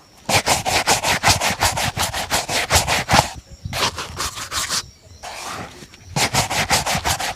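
A leather shoe being rubbed with fast back-and-forth strokes, brushing or buffing its polish, about seven strokes a second. There are two runs of quick strokes with a few slower, softer strokes between them.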